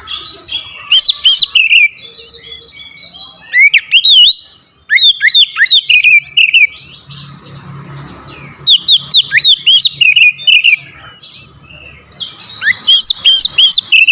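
Oriental magpie-robin (kacer) singing loudly: bursts of rapid, sharp, sweeping whistled notes with brief pauses between them.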